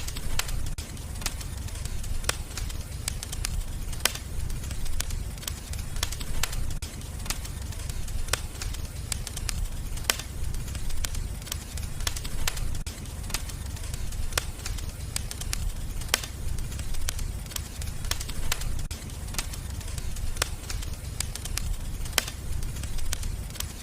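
Fireplace fire crackling, with frequent sharp irregular pops over a steady low rumble of the flames.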